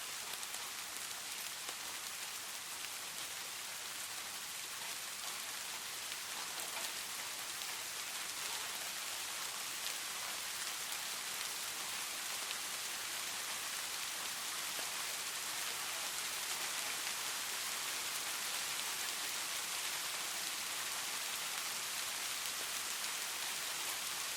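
Steady rain falling, a dense even patter of drops on surfaces with no thunder or music.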